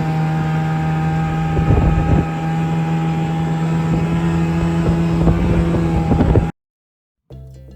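Snowmobile engine running at a steady speed under way, with wind buffeting the microphone. It cuts off suddenly about six and a half seconds in, and soft music starts near the end.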